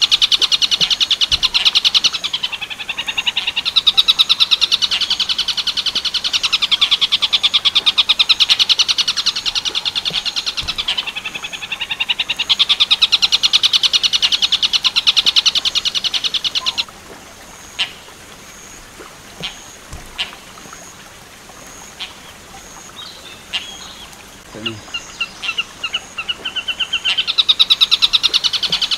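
Bird call of the 'tengkek buto' type, a rapid rattling chatter of fast, evenly repeated high notes. It runs in long bouts with brief dips near 3 s and 11 s. About 17 s in it stops for a pause of about ten seconds, which holds only a few soft clicks and short chirps, and the chatter starts again near the end.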